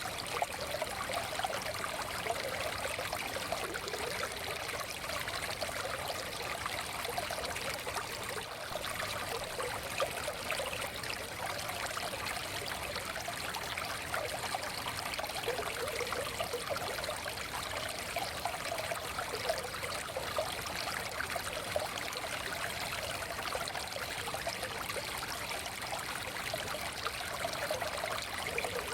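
Forest stream flowing steadily, water babbling and trickling over stones without a break.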